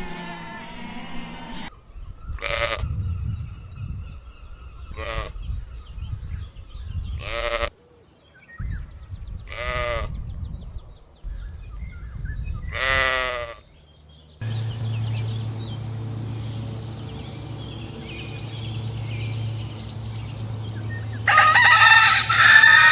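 Farm animals calling: five short pitched calls a few seconds apart. Then a steady low hum, and a loud burst of high chirping near the end.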